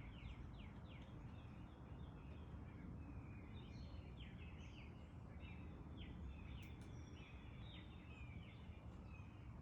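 Faint outdoor birdsong: several birds chirping in quick repeated notes and short trills, over a steady low rumble.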